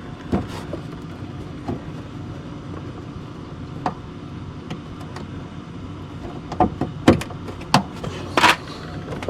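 Sharp plastic clicks and knocks as push-in clips are pressed into a car's under-engine splash guard: a few scattered ones, then a quicker cluster near the end, over a steady low hum.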